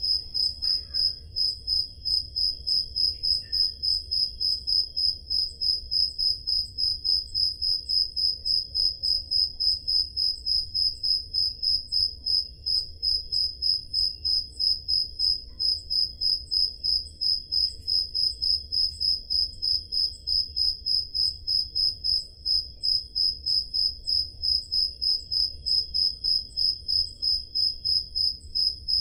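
Crickets chirping on a summer night: one loud, high-pitched cricket chirps in a steady, even rhythm of about three chirps a second, with fainter crickets chirping at a lower pitch behind it.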